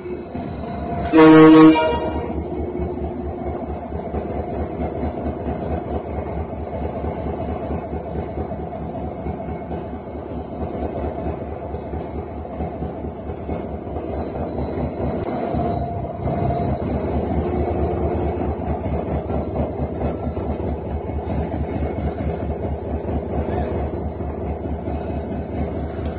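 Locomotive horn sounds one short blast about a second in, over the steady running of the train's diesel engine, heard from the cab.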